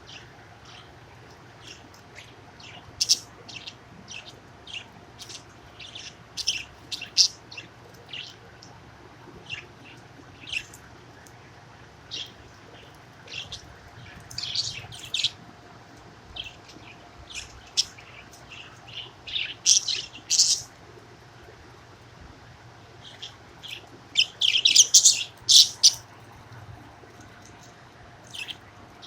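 Pet budgerigar chirping in short, high, scattered calls, with a quick flurry of chirps near the end.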